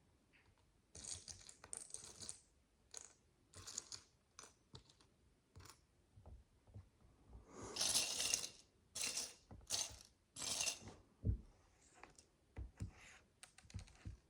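Tiny plastic micro building bricks being handled and sorted: a dozen or so short bursts of small pieces rattling and clicking, the loudest cluster of rattles coming about halfway through.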